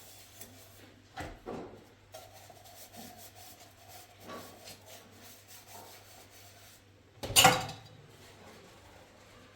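Objects being handled and rubbed: a few soft knocks early on and one loud, sharp knock about seven and a half seconds in.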